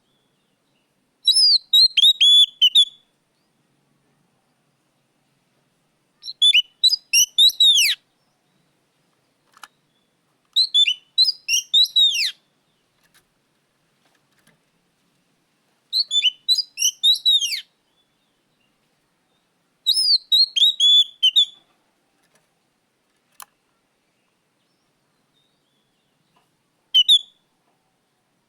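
Oriental magpie-robin (kacer) singing loud phrases of rapid high whistled notes, each phrase about two seconds long, five times with pauses of a few seconds between, then a brief sixth phrase near the end.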